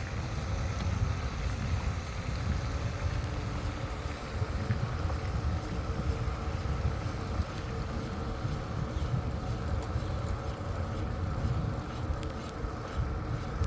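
Wind rumbling and buffeting on a phone microphone carried on a moving bike, with a few faint clicks near the end.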